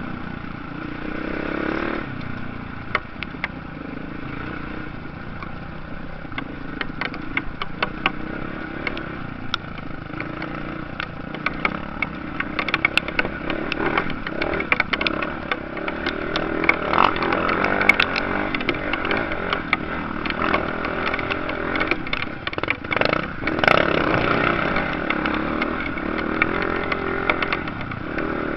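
Motocross bikes racing, their engines revving up and down and rising and falling as they pass, with many sharp clicks and crackles through it.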